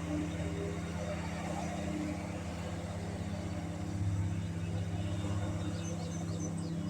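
Engine running at a steady speed, with a few short bird chirps near the end.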